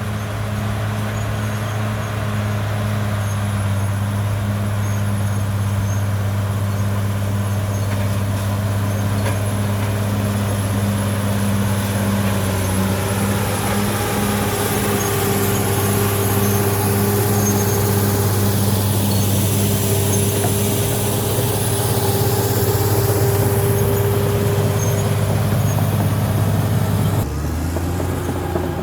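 CAT D6R XL bulldozer's diesel engine running steadily with a deep hum, joined about halfway by a higher steady whine. The sound changes abruptly shortly before the end.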